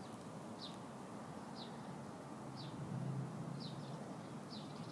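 A small bird repeating a short, high, falling chirp about once a second.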